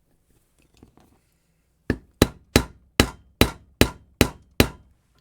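Plastic mallet tapping on an angle grinder's gearbox, eight quick blows starting about two seconds in, each with a short metallic ring, to drive the gear assembly down against grease pushing back.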